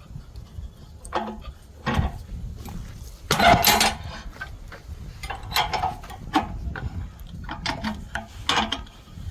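Irregular knocks, clacks and scraping of wood and metal as a utility-pole log is handled and set on a portable sawmill's bed, with a longer, louder scrape about three and a half seconds in.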